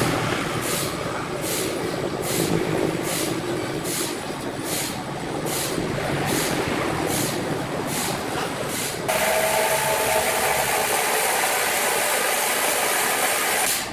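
Sawmill machinery running, with a regular clack a little more than once a second. About nine seconds in it turns into a louder, steady noise with a whine.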